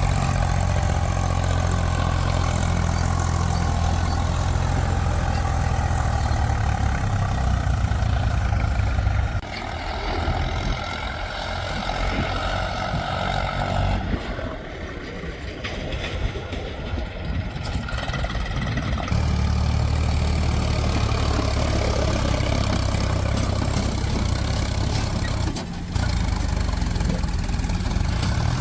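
Heavy diesel engine running with a steady low rumble. The rumble drops away for about ten seconds in the middle, then comes back strong.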